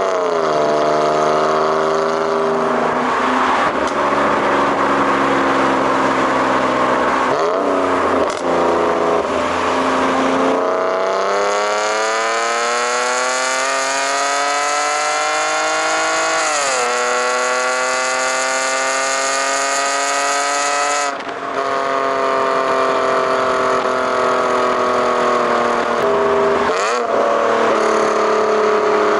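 BMW E46 exhaust note under acceleration: the engine pitch climbs steadily and drops sharply at each gear change. The longest climb runs from about eleven seconds in, with shifts at about seventeen and twenty-one seconds, before the engine settles at a steadier pitch.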